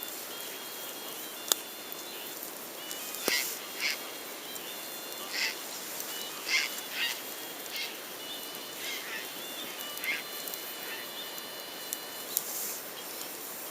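Campfire burning: a steady hiss with two sharp pops and a string of short crackles, plus thin high whistling tones that come and go.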